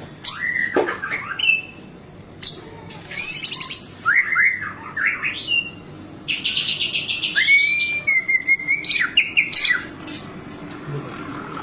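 White-rumped shama (murai batu) singing a varied song of loud whistled phrases that sweep up and down, with a fast rattling trill about six seconds in followed by a long slurred note.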